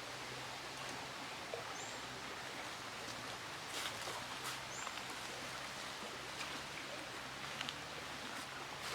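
Steady rushing outdoor background of river water, with two short high bird chirps and a few light clicks.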